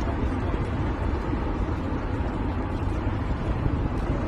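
Steady low rumble and rush of a moving train, with wind buffeting the microphone.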